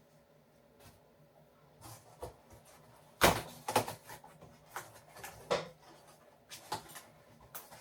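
Irregular knocks and clunks from a new fridge freezer and its packaging being pulled and worked at by hand, the loudest about three seconds in.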